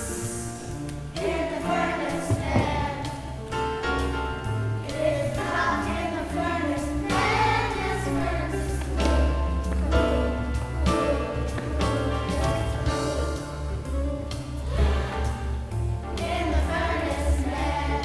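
Upbeat gospel-style song: a choir singing over a musical accompaniment with a steady bass line.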